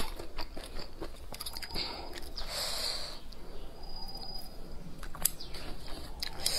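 Close-up chewing of braised duck meat with chilies: soft wet mouth sounds and small scattered clicks, with a brief hiss about two and a half seconds in.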